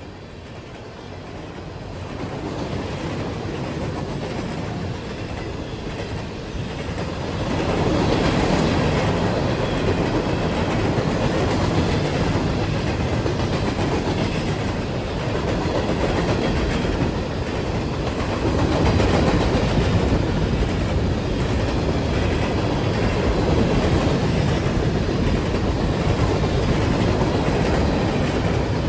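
Train passing on the tracks: wheel-on-rail rumble builds, swells sharply about seven seconds in, then holds steady as the cars roll by with a clickety-clack.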